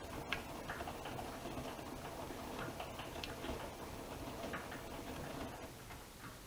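AEG Öko-Lavamat Lavalogic 1600 washing machine in its wash phase, the drum turning with scattered light clicks and ticks over a steady rumble, going quieter about six seconds in.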